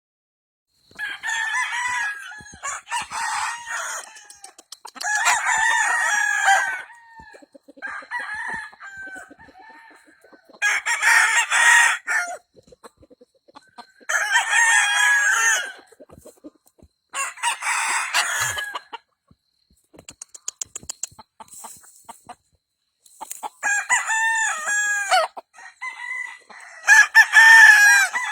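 Game roosters crowing in turn, about eight crows, each lasting a second or two, with short pauses between.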